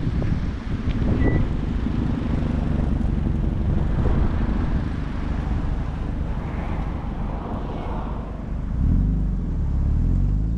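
A car engine running as it drives by, its pitch shifting about nine seconds in, with wind buffeting the microphone.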